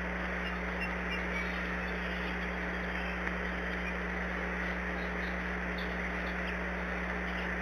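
Steady noise with a constant low hum, over which faint, short, high bird chirps come and go.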